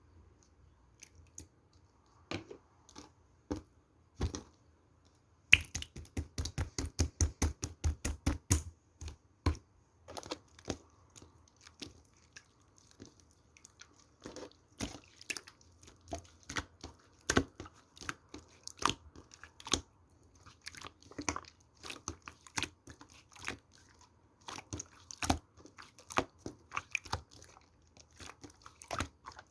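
Yellow slime being squished and pressed by hand, making sharp sticky clicks and pops. A fast run of pops comes a few seconds in, followed by irregular single pops.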